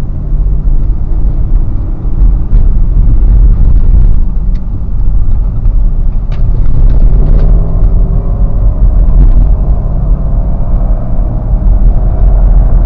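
Car being driven: a steady, loud low rumble of engine and road noise, with a few faint clicks and a slight drifting hum in the second half.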